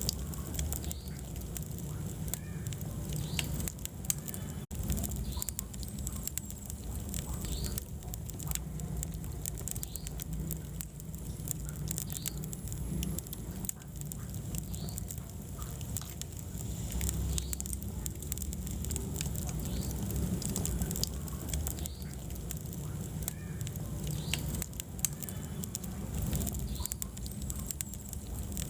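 Wood fire burning in a fireplace: a steady low rumble of flames with frequent sharp crackles and pops, and occasional short high squeaks.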